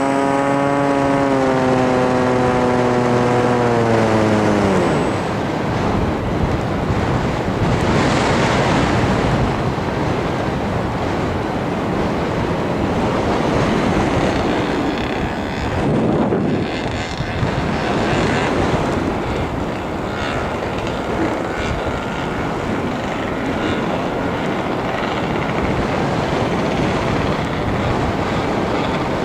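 FPV model aircraft's motor whining at a steady pitch, then sinking in pitch and fading out about five seconds in. After that, a steady rush of wind noise over the aircraft's onboard microphone.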